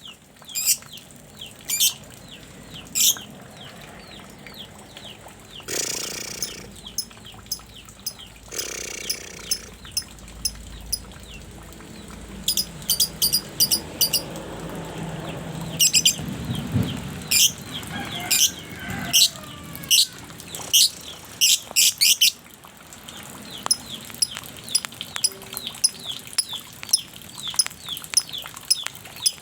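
A young songbird chirping repeatedly in short, sharp high notes, breaking now and then into quick runs of rapid notes. Two brief rustling bursts come about six and nine seconds in.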